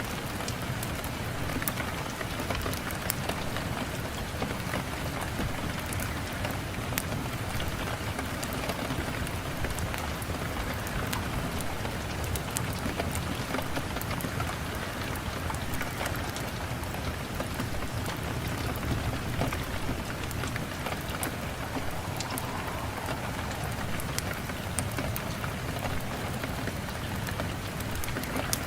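Steady rain: a continuous hiss with many sharp ticks of drops striking a surface.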